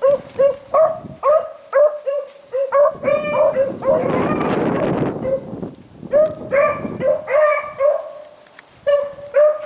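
Hunting beagles barking, a steady string of short, high yelps about two a second. Between about three and six seconds in, a rushing noise rises over the barks and then fades.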